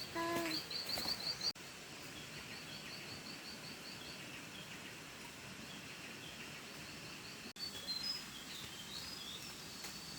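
Forest ambience: a steady hiss under small birds chirping, first in quick even series of high notes, then in more varied high calls in the last couple of seconds.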